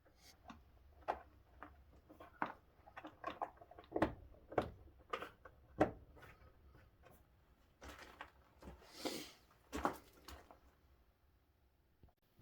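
A string of irregular knocks and clicks of things being handled and set down, loudest about four to six seconds in, with a short rustle about nine seconds in.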